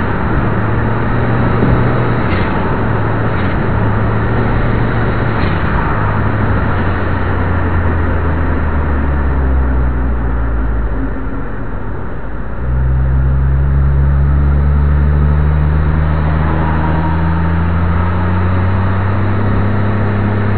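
Perodua Viva's engine and road noise heard from inside the cabin while driving at highway speed. About twelve seconds in the engine note eases off briefly, then comes back louder and climbs slowly in pitch as the car accelerates again.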